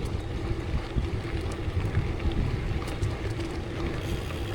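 Wind noise on the microphone and tyre rumble of a bicycle riding along a rail trail: a steady, noisy low rumble.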